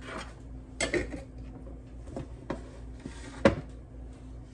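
Dishes and utensils knocking and clinking on a kitchen counter as food is plated: a handful of separate knocks, the sharpest about three and a half seconds in.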